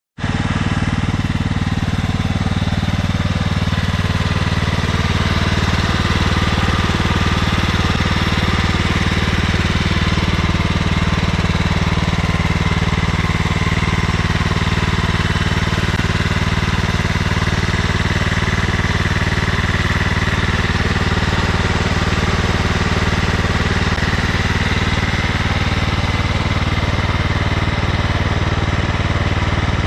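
Kohler CV15 single-cylinder engine of a John Deere LX255 lawn tractor running steadily, with little valve noise now that its low oil has been topped up with 10W-30 synthetic.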